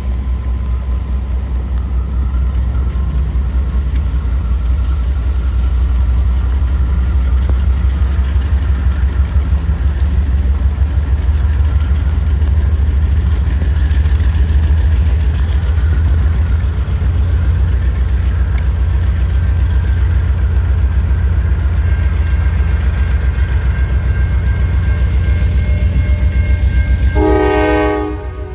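Norfolk Southern freight train passing a grade crossing: a steady heavy rumble with a fast, even beat of wheels on rail. Near the end, a short multi-note air horn chord sounds just before the rumble drops.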